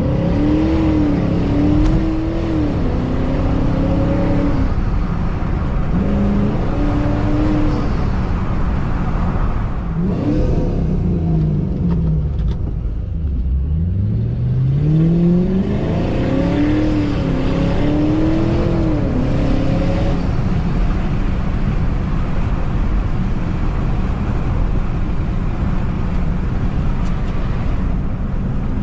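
Supercharged 2006 Ford Mustang GT 4.6 V8 being driven. The engine revs rise and break off at gear changes in the first few seconds, fall away as the car slows around the middle, then climb again in a long pull. For the last third it settles into a steady engine and road noise with no clear rise or fall.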